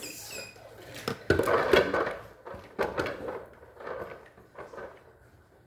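Ice and plastic freezer parts clattering and knocking as they are handled, a busy cluster of hard knocks about a second and a half in, then fewer and fainter knocks.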